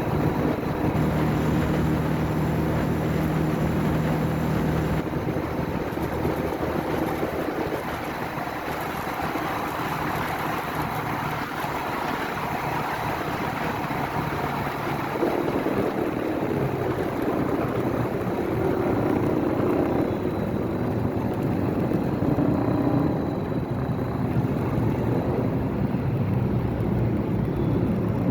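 Motorcycle engine running on the move, with road and wind noise; the engine note shifts to a higher pitch about halfway through.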